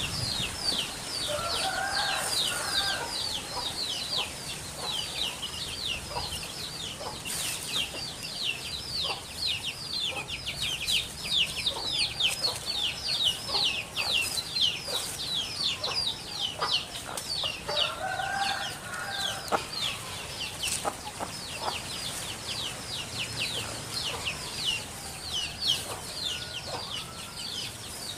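Chickens calling: a constant run of quick, high, falling calls, with two lower, longer calls about two seconds in and again around eighteen seconds.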